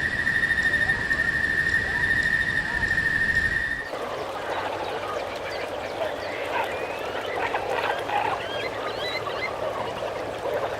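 A steady high-pitched whine for about four seconds, then an abrupt change to a dense chorus of many overlapping animal calls, short and wavering in pitch.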